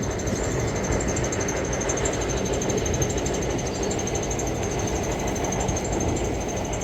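Water pump running steadily: a continuous mechanical rumble with a steady high whine.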